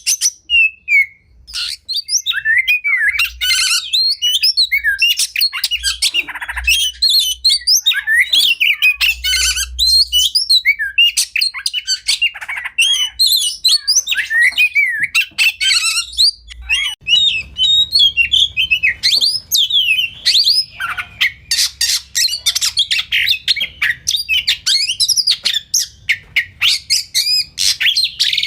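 Oriental magpie-robin (kacer) singing a continuous, rapidly varied song of whistles, chirps and harsh notes, with fast runs of sharp clicking notes in the second half.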